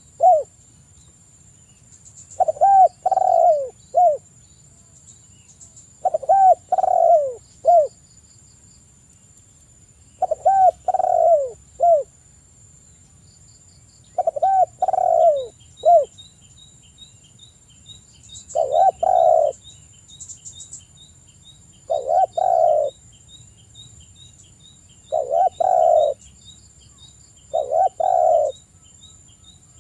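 Spotted dove (tekukur) cooing over and over: a phrase of three or four coos about every four seconds. From about halfway through, a faint run of quick high chirps from a small bird goes on behind it.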